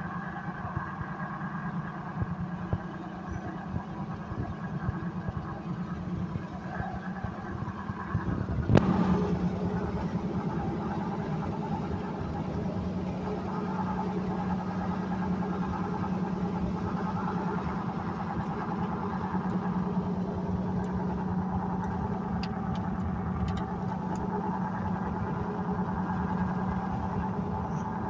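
Car engine and road noise while driving, a steady hum. About nine seconds in comes a single sharp thump, after which the noise runs a little louder.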